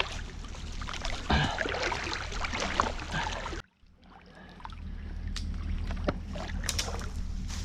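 Water sloshing and splashing with scattered small knocks over a steady low rumble; the sound cuts out suddenly about three and a half seconds in and comes back within a second.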